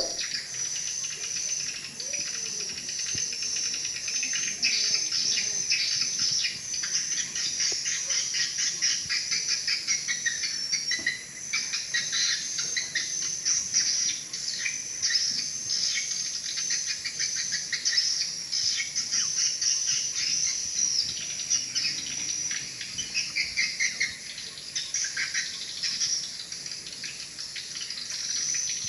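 Swiftlet call sound, a lure call of the kind used to draw swiftlets to a nesting house: dense, rapid twittering chirps and clicks going on without a break.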